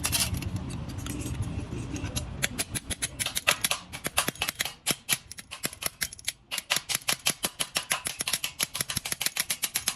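A low rumble, then a fast, irregular run of sharp clicks or snips, several a second, starting about two seconds in and stopping near the end.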